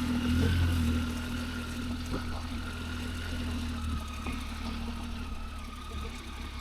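Motorcycle engine running steadily at low road speed, a little louder in the first second and then easing off, with a faint thin whine above it.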